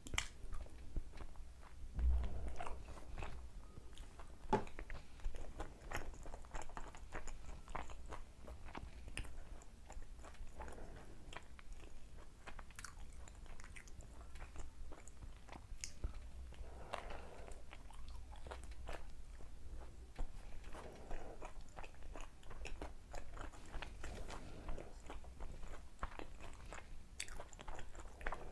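Close-miked biting and chewing of chicken lollipop, with crunches and many small mouth clicks, and a low thump about two seconds in.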